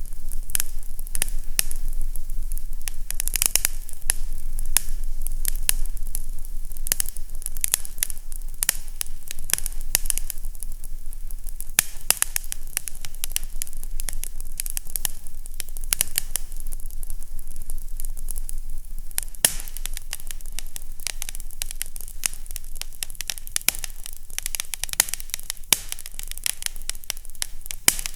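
Fireplace fire crackling, a dense run of sharp pops and snaps over a steady hiss, with a faint low hum beneath.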